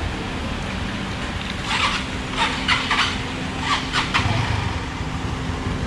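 A motorcycle engine running steadily, with a handful of short metallic clicks and clinks of hand tools between about two and four seconds in.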